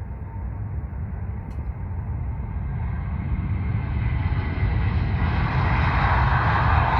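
An airplane's engine noise, a steady rushing rumble growing louder throughout as the aircraft approaches.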